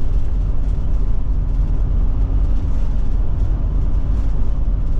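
Forest River Forester motorhome driving at steady speed: continuous low road and engine rumble with a faint steady hum.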